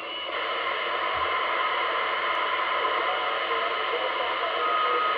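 Radio receiver static: a steady hiss with faint steady tones running through it, and a short clearer tone near the end. The recordist thinks it is skip and packet radio.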